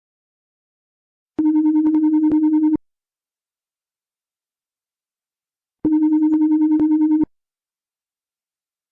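Electronic buzzing tone with a fast flutter, sounding twice, each about a second and a half long, about three seconds apart.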